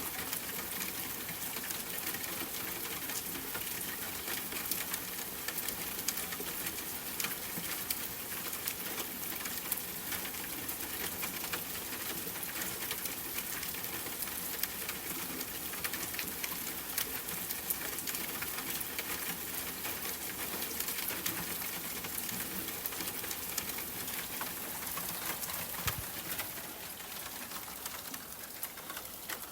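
Steady rain pattering, with many small drops ticking sharply against a surface close by. A single low thump comes near the end.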